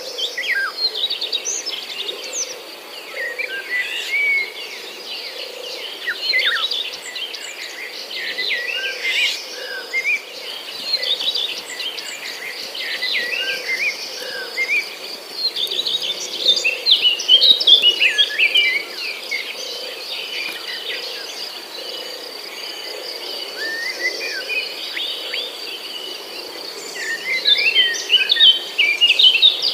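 Small songbirds chirping and twittering in many short calls, busiest around the middle and near the end, over a steady thin high tone. Soft regular footsteps sound underneath, about one a second.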